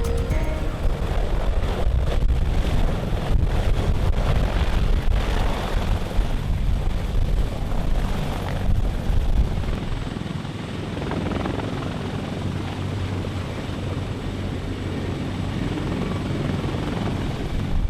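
Heavy helicopter, likely a CH-53E Super Stallion, running with a loud continuous rotor and turbine roar. The sound shifts in character about ten seconds in.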